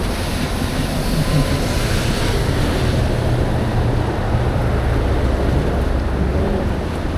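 Wind rushing over the microphone and wet-road noise while riding at speed in the rain among traffic, with a low hum swelling from about three seconds in to near the end.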